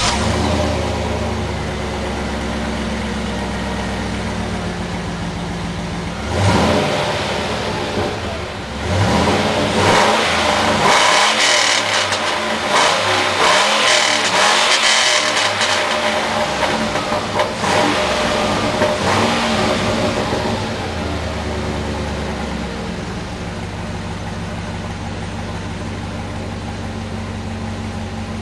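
2005 Chevy Silverado 2500HD's Vortec 6.0L LQ4 V8 through a loud aftermarket exhaust (3-inch duals, Magnaflow high-flow cats, Y-piped to one 4-inch tip). It idles steadily, is blipped once about six seconds in, then revved repeatedly in short blips for about ten seconds before settling back to a steady idle.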